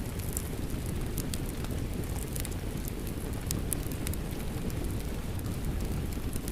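Wood fire crackling with irregular sharp pops, over a steady low hiss of falling rain.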